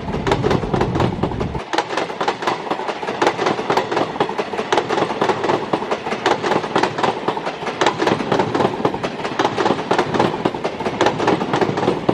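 Passenger train coaches passing close at speed, the wheels clattering rapidly over rail joints in a dense run of clicks. A deep rumble underneath drops away sharply about one and a half seconds in.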